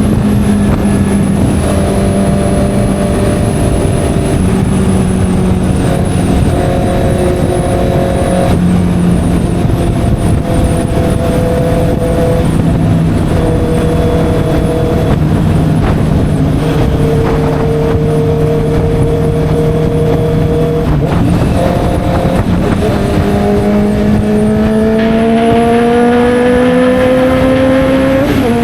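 Honda CB650R's inline-four engine through an SC Project exhaust, riding at steady revs that step up and down several times. Near the end the revs climb steadily under acceleration, then drop sharply as the rider shifts gear.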